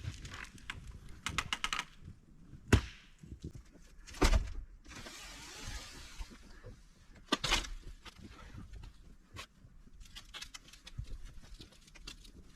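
Footsteps with a series of sharp knocks and clatters, as large screen panels are handled and stood up. Two loud knocks come in the first half, followed by a short rushing hiss.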